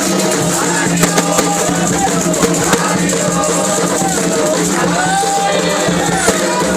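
Ritual singing for the orisha Şàngò: a chant with melodic sung lines over constantly shaken rattles and percussion.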